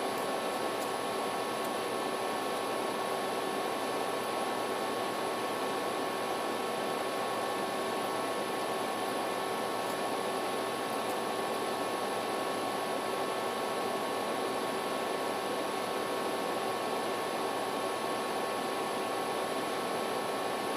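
Steady, unchanging hiss with a few faint steady tones running through it, like the noise of a fan or electrical equipment.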